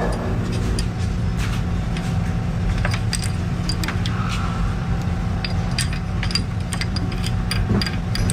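A steady low machine hum with many light, irregular metallic clicks and clinks of small parts being handled.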